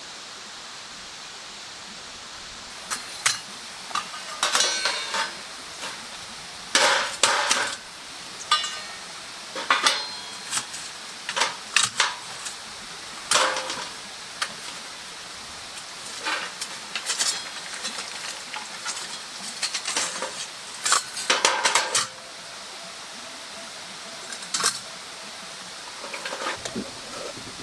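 Metal cookware and utensils clinking, knocking and scraping in irregular bursts over a steady hiss, quietening near the end.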